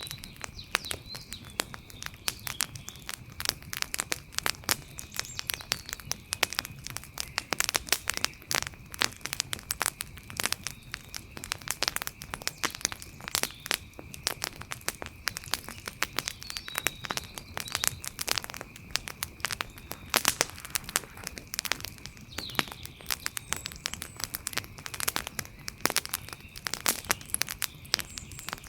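Wood fire crackling, with dense, irregular pops and snaps, over a faint steady high-pitched tone.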